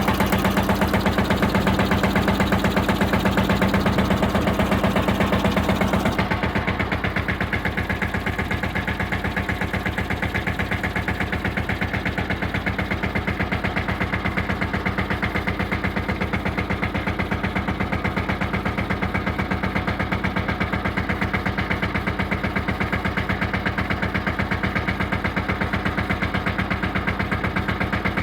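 Captain mini tractor's diesel engine running steadily with a rapid, even beat; about six seconds in it drops to a quieter, lower note and keeps running evenly.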